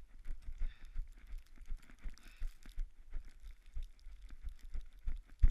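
Running footsteps in snow at about three strides a second, with one louder thump near the end.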